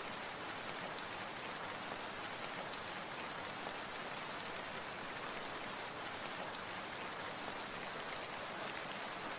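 Water making a steady, even hiss with a fine patter of drops, like rain falling on a surface.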